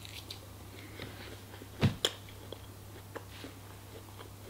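A person chewing a mouthful of waffle, with soft wet mouth sounds and two sharp clicks about two seconds in.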